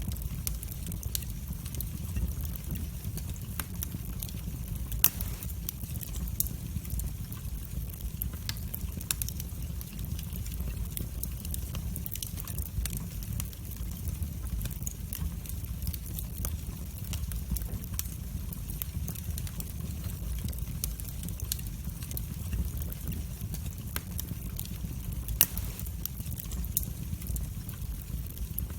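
Wood fire burning in a fireplace: a steady low rumble of flames with frequent small crackles, and two louder pops, one about five seconds in and one near the end.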